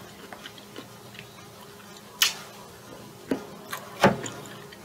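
Eating sounds: wet chewing with a scatter of sharp clicks and smacks from the mouth. The loudest come about two seconds in and again near the end.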